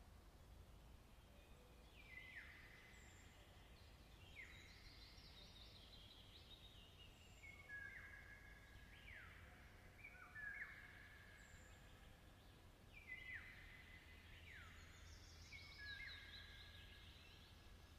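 Faint birdsong: several birds calling over and over with falling whistles and short held notes, starting about two seconds in, over a low background rumble.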